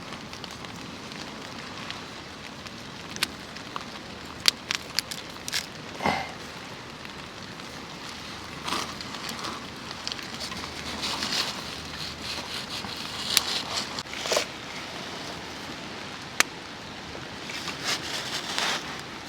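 Campfire crackling, with scattered sharp pops and short bursts over a steady hiss of light rain.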